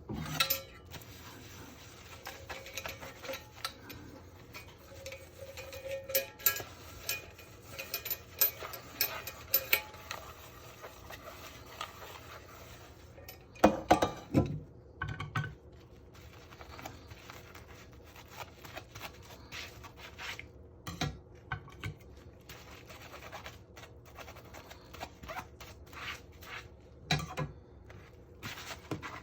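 Dishes and cutlery clinking and knocking as they are washed: irregular sharp clinks throughout, with the loudest knock about 14 seconds in.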